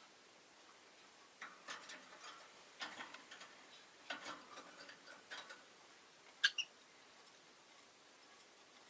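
Faint scattered clicks and taps from caged rosy-faced lovebirds, starting about a second and a half in, then one short, sharp chirp about six and a half seconds in.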